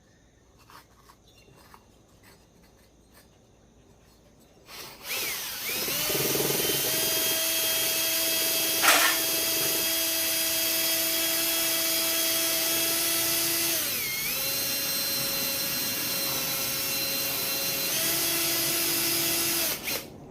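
Small handheld electric rotary tool spinning up about five seconds in and running steadily, its pitch sagging briefly under load partway through before it stops near the end, as it scours aluminium transfer off the chainsaw's cylinder bore. Light handling clicks come before it starts, and one sharp tick sounds while it runs.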